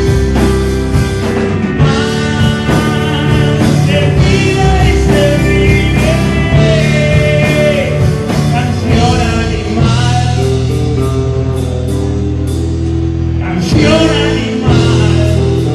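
A rock band plays a song with singing: sustained electric guitar chords over bass and drums, with a lead vocal holding long, wavering notes. Near the end the band drops out briefly and comes back in with fresh hits.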